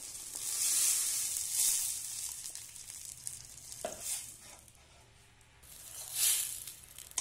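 Ground masala frying in hot oil in a steel pan, sizzling as the leftover water from the mixer jar goes in and a steel spoon stirs it. The hiss swells about half a second in, dies down in the middle, and swells again near the end.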